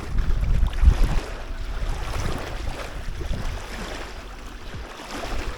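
Wind buffeting the microphone in gusts, heaviest in the first second or so, over the wash of small waves on a rocky lake shore.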